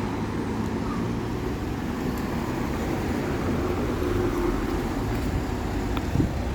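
Diesel bus engine running steadily, a low engine hum with traffic noise around it, and a short knock near the end.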